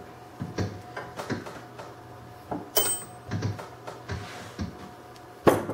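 Scattered knocks and clicks of a wooden bowl and a metal lathe chuck being handled, as the bowl's tenon is tried in the chuck jaws and turns out a hair too big. A sharp click comes about halfway and the loudest knock near the end, over a faint steady hum.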